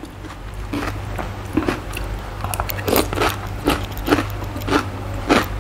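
Close-miked chewing of crisp raw cucumber: a string of sharp, irregular crunches, several a second.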